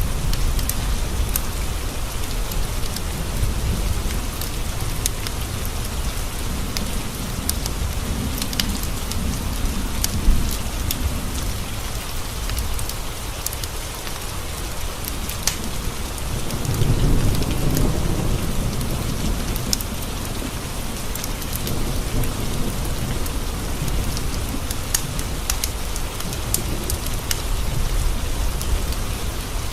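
Steady rain pattering on window glass, with a low rolling thunder rumble that swells about two-thirds of the way through. Scattered sharp crackles from a wood fire in a stone fireplace, one louder crack about ten seconds in.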